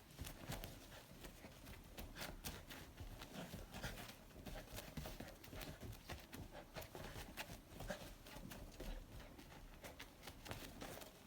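Faint, irregular soft taps and rustles of a kitten and a dog scuffling on bedding.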